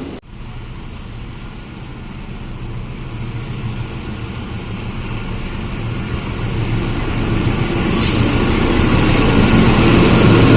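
Train approaching, its low engine rumble growing steadily louder, with a brief hiss about eight seconds in.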